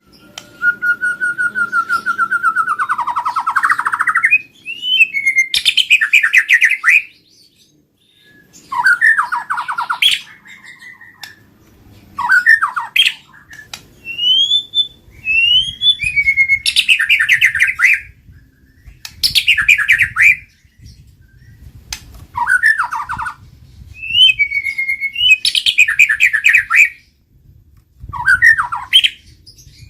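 White-rumped shama (murai batu) singing loudly in separate phrases every few seconds. It opens with a long held whistle, and the later phrases are quick rising or falling glides followed by rapid trilled notes.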